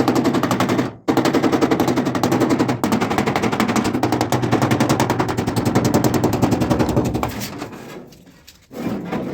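A power impact tool on car bodywork, hammering in a fast, even rattle of blows. It breaks off briefly about a second in and dies away near the end.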